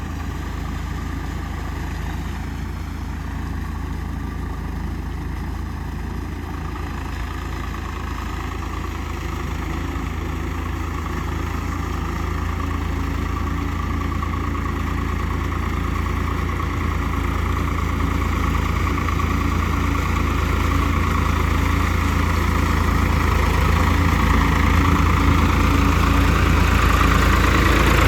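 Swaraj 744 FE tractor's diesel engine running steadily, getting gradually louder.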